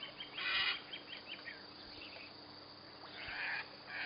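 Birds chirping with many short calls, with three brief rasping bursts, about half a second in and twice near the end.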